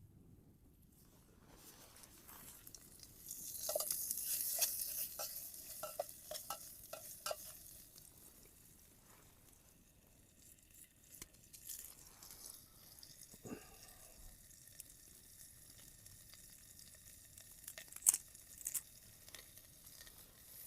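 Sliced sausage frying in butter in a pan over a campfire. The sizzle starts about a second and a half in, is loudest a few seconds later, then settles to a fainter steady sizzle. Scattered clicks and knocks run through it, one louder near the end.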